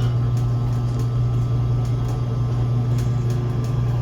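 Electric boat lift motor running with a steady hum while raising the boat, without the squeaking it made earlier.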